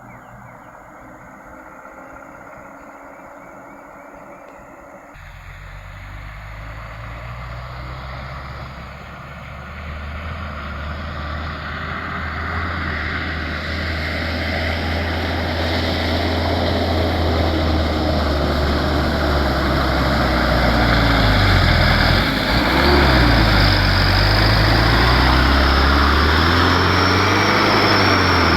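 Truck engine working under load, starting about five seconds in and growing steadily louder, with its revs rising and falling repeatedly near the end.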